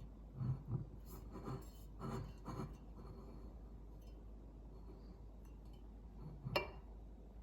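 A few light knocks and clinks of small objects being handled, in clusters over the first three seconds, then one sharper, louder clink about six and a half seconds in, over a low steady hum.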